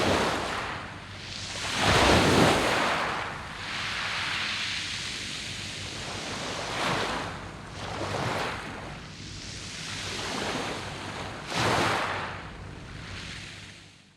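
Sea waves breaking and washing over a round-pebble beach, coming in a series of surges, the biggest about two seconds in. The sound falls away abruptly at the very end.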